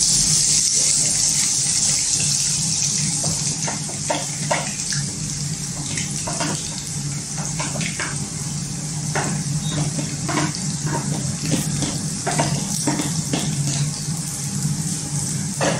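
Sliced onions, ginger, garlic and green chili sizzling in hot oil in a nonstick kadai. The hiss is loudest as they go in and eases into steady frying, with scattered pops and crackles.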